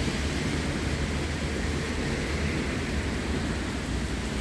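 Thunder rolling in a long, steady low rumble over the even hiss of falling rain.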